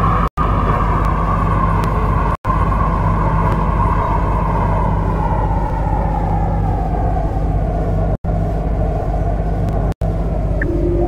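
MTR C-Train electric multiple unit running, its traction motors whining in a stack of tones that slide steadily down in pitch as the train slows, over a constant low rumble. The sound cuts out completely for an instant four times.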